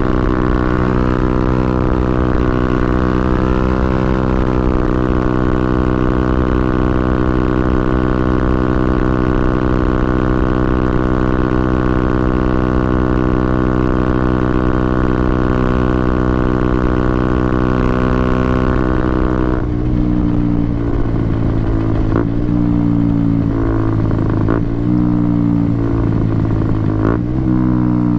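KTM Duke 125's single-cylinder four-stroke engine running at steady revs for about twenty seconds. It then drops to lower, uneven revs with a few clattering knocks, and revs climb again near the end.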